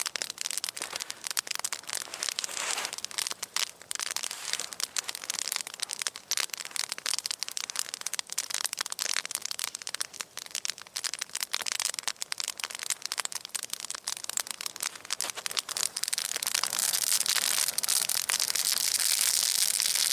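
Wood fire burning, crackling with dense, irregular snaps. Near the end a steady hiss grows louder under the crackle.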